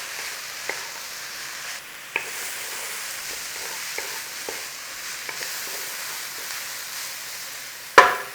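Garlic, ginger and stir-fry vegetables sizzling in hot oil while being stirred, with a few light clicks of the spoon against the pan and one sharp knock near the end.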